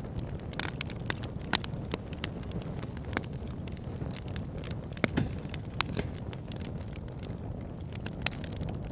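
Wood fire burning in a fireplace: a steady low rumble of flames with irregular crackles and sharp pops of burning wood throughout.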